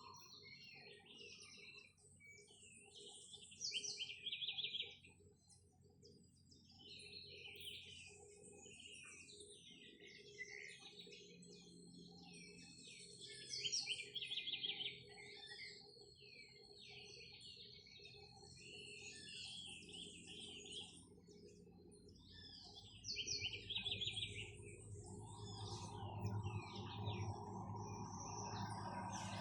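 Several birds chirping and calling together, with a loud rapid trill that comes back about every ten seconds. A low rumble builds up in the last few seconds.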